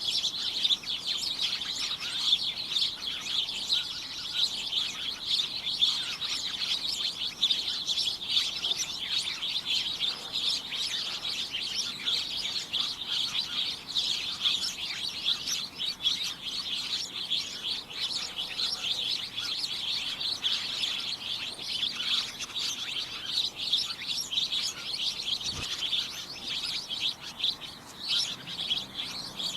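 A flock of small birds chirping together in a dense, continuous chatter of short, high chirps.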